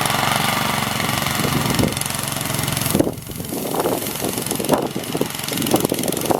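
Snowblower's small engine running steadily with a loud rushing noise. About three seconds in the rushing drops and irregular short scraping bursts follow.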